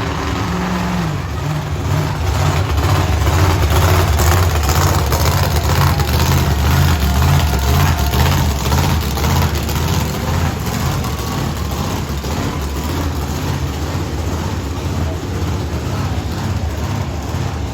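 Monster truck engine running loud and revving up and down, its low exhaust note strongest in the first half and settling a little lower later on.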